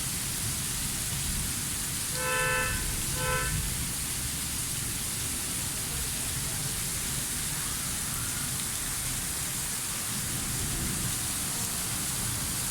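Heavy rain falling with a steady hiss. About two seconds in, two short honks of a horn sound over it.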